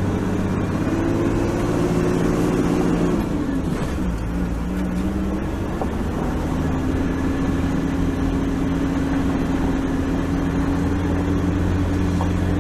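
Four-wheel-drive vehicle's engine running under way on a sand track; the engine note drops about three seconds in, then holds steady.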